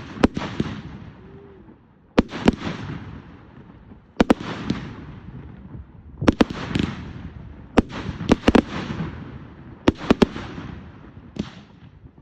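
Fireworks going off: sharp bangs in clusters of one to three, coming about every two seconds, each followed by a fading crackling hiss.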